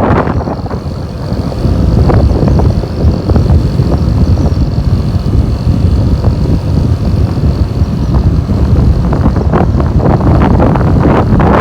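Wind buffeting the microphone of a moving motorcycle, with the motorcycle's engine and road noise beneath it. A faint steady high whine sits over it until about eight seconds in.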